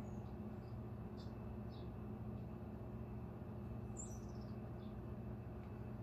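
Birds chirping now and then: short high chirps, with one quick falling call about four seconds in, over a steady low background hum.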